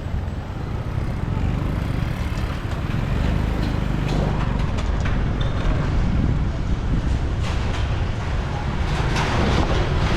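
Motorcycle ride in city traffic: a steady low rumble of engine and road noise, with brief louder swells in the second half.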